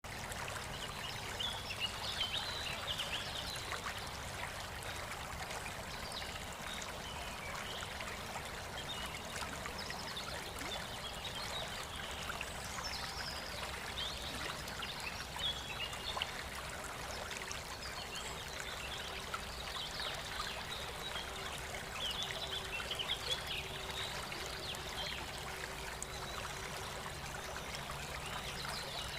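Steady running water, like a stream or trickle, with scattered faint high chirps over it.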